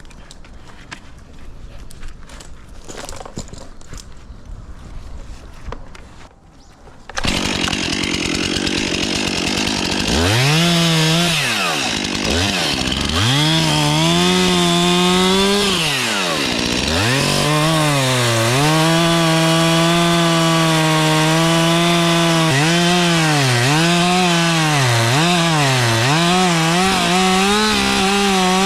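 Gasoline chainsaw cutting tree branches. Light clicks and rustling for the first seven seconds or so, then the saw runs loud, its engine pitch dropping and climbing again and again as it is throttled and loaded in the cut.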